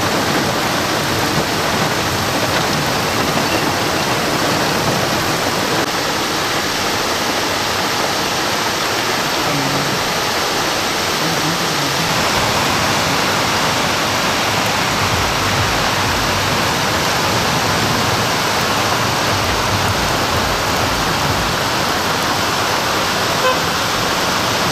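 Heavy rain pouring down and floodwater rushing along a street, a loud steady hiss. A low rumble comes in during the second half.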